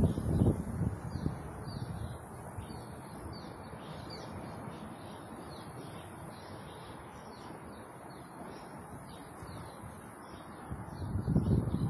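Small birds chirping over and over in short, high, downward chirps above a steady background rush. Wind buffets the microphone at the start and again near the end.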